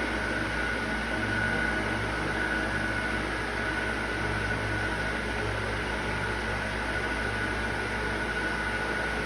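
Steady machine hum and hiss, like a running fan or similar motor, with a faint high whine held at one pitch.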